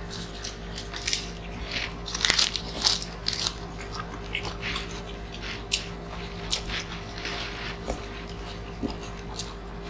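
Close-miked eating sounds: chewing and wet lip smacks as grilled chicken and rice are eaten by hand, with short crunches. The smacks come thickest and loudest around two to three seconds in.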